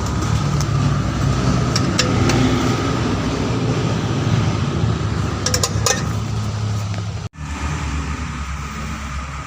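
A motor vehicle engine running steadily at idle, with a few light metallic clinks.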